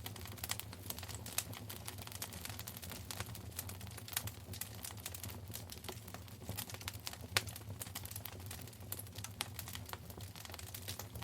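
Wood fire crackling in a fireplace: a dense, irregular run of small sharp pops and snaps, a louder pop about seven seconds in, over a low steady hum.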